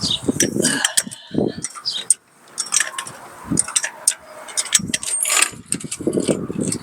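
Irregular metallic clanks and clinks as the steel bumper is worked loose from the pickup's frame: a run of sharp knocks, several with a short metallic ring.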